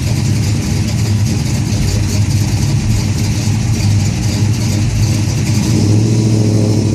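Classic car engines and exhausts running as cars cruise slowly past: a steady low rumble that grows a little louder about six seconds in.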